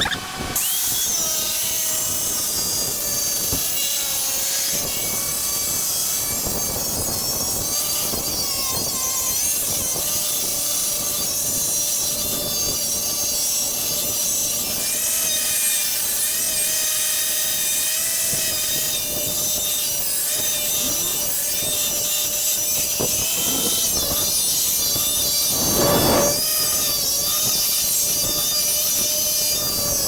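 A power tool steadily cutting steel plate down to size, a continuous loud grinding hiss over a slightly wavering whine, surging briefly louder a little before the end.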